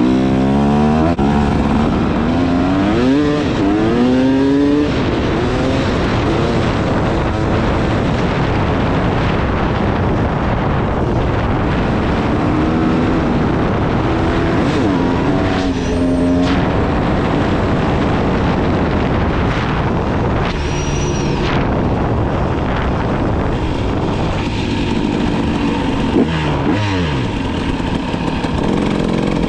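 300 cc two-stroke dirt bike engine running under way, revving up and easing off several times as it is ridden.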